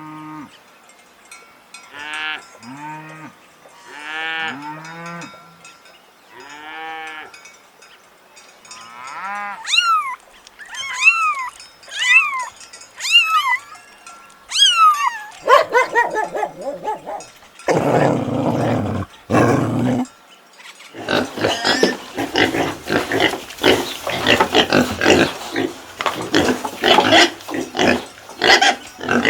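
A succession of different farm animal calls, one after another. Short pitched calls come first, higher arching calls from about ten seconds in, and then a loud, dense run of rough, noisy calls over the last third.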